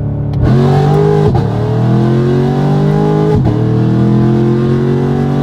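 Loud car engine at full throttle accelerating hard, its pitch climbing steadily, dropping at two upshifts about a second in and again past the middle, then climbing again.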